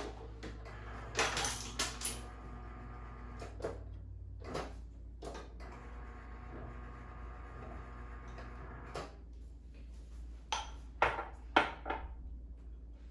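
Ice cubes being dropped into drinking glasses, clinking against the glass in irregular bursts, with the loudest clinks near the end.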